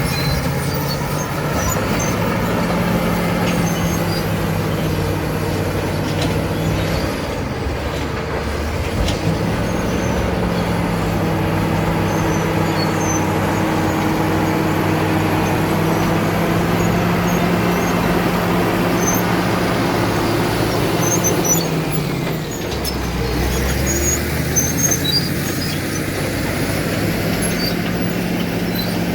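Caterpillar D7 bulldozer's diesel engine running, a steady drone that drops and recovers in pitch about eight seconds in and again about twenty-two seconds in, with scattered short high squeaks over it.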